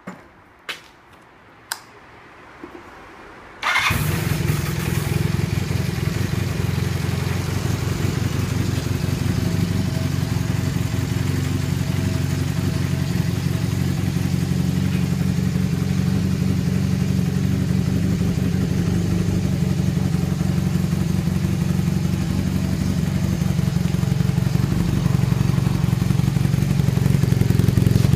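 A few sharp clicks, then a Honda Hawk parallel-twin motorcycle engine catches about four seconds in and settles into a steady idle, a little louder in the last few seconds.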